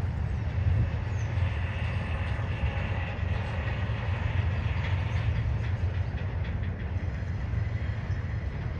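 Norfolk Southern double-stack intermodal freight cars rolling steadily across a bridge: a continuous low rumble, with a faint high wheel squeal in the middle and light clicking of wheels over the rail joints later on.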